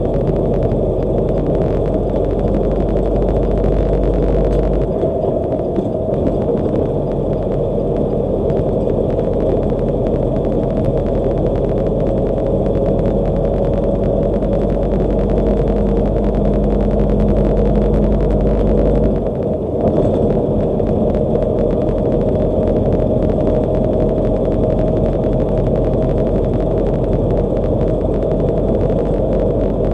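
Steady road and engine noise of a car driving at highway speed, a low rumble that dips briefly about two-thirds of the way through.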